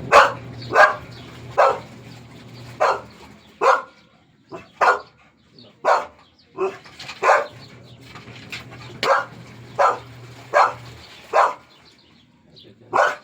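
A dog barking over and over in short single barks, about one a second, barking for attention.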